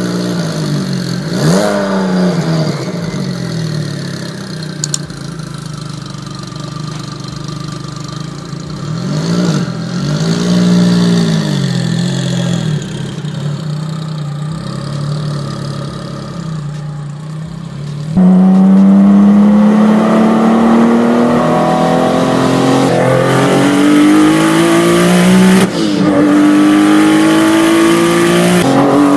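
Porsche 911-based supercar's engine idling and blipped a few times, each rev rising and falling. Then, heard from inside the car, hard acceleration with the engine note climbing steadily and dropping back at gear changes, one shortly after the two-thirds mark and one near the end.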